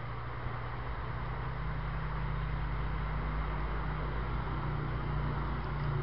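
Steady low motor rumble under a wide hiss, slowly growing louder.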